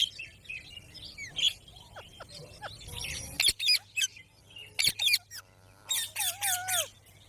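Pet green parrot calling: short, sharp screeches and chirps in irregular bursts, with a longer wavering call near the end.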